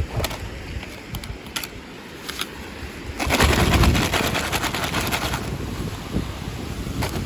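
Handling of toy packaging during unboxing: a few light clicks and taps, then about three seconds in a louder, dense crinkling rustle of plastic wrapping that eases off after a couple of seconds.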